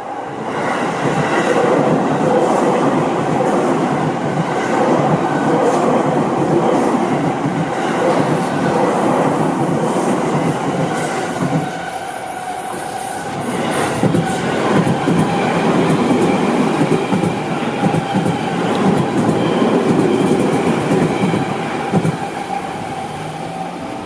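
Seibu Ikebukuro Line electric train passing close by over a level crossing, its wheels running over the rails. It is loud throughout, with a brief lull about halfway before the sound builds again.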